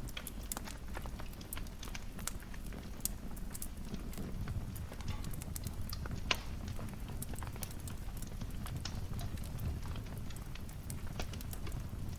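Wood fire crackling: irregular snaps and pops over a low, steady rumble, with one louder pop about six seconds in.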